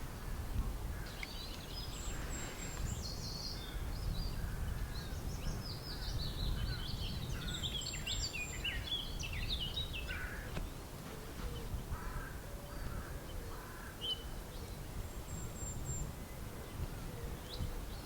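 Wild birds singing and calling in woodland, with a busy run of quick high chirps and trills that thins out after about ten seconds, over a steady low rumble.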